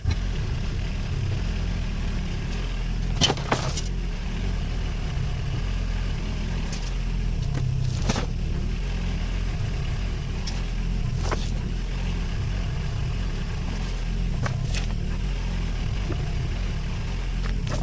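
Engine running steadily with a deep rumble. A few sharp knocks or clunks break in about three, eight, eleven and fourteen seconds in.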